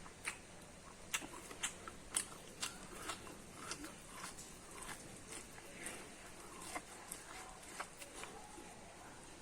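Close-miked chewing and biting of corn (maize) kernels: irregular crisp clicks and small crunches, most frequent in the first three seconds, then sparser.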